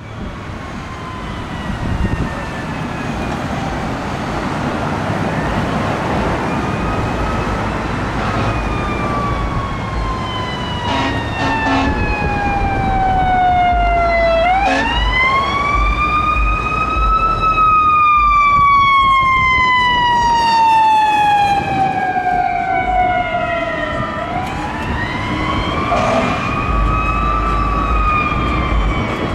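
Fire truck siren sweeping slowly down in pitch over several seconds, then winding back up and falling again, twice over. Low engine rumble runs underneath.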